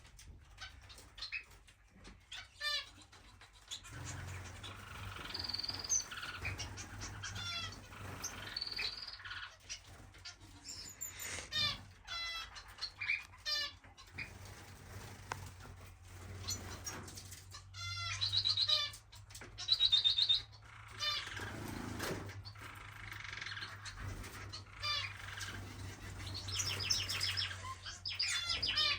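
Aviary of finches chirping and calling, with short rapid trills, over the flutter of wings as birds fly about and land.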